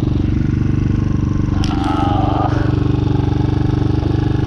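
Chinese 250 cc dirt bike engine running at a steady pitch. There is a click and a brief wavering higher sound about halfway through.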